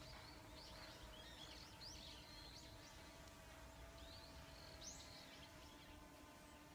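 Faint outdoor ambience: small birds chirping now and then in short, quick calls over a low steady rumble and a faint even hum.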